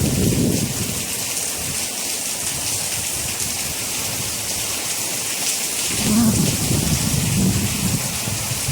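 Steady heavy rain hissing, with low rolling thunder rumbling at the very start and again from about six seconds in.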